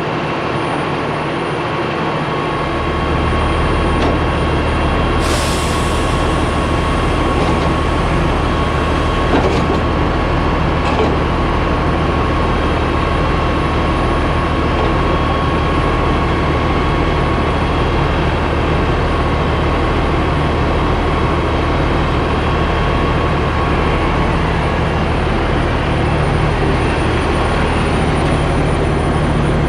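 A diesel engine comes in about two and a half seconds in and then runs at a steady idle, over the steady running of other heavy machinery. A short hiss sounds a few seconds later.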